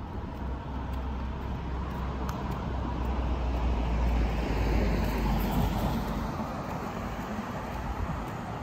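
A car passing on the street: its engine rumble and tyre noise grow to a peak about halfway through, then fade away.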